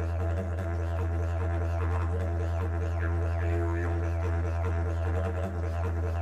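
Didgeridoo playing a continuous low drone on one steady pitch, its overtones shifting and sweeping above it.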